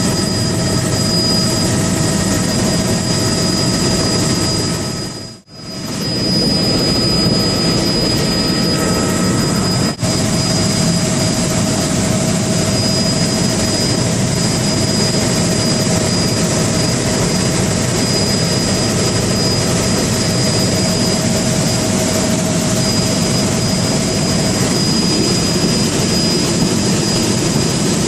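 Steady engine drone with a constant high whine over it. It dips out briefly about five seconds in, and there is a single click around ten seconds.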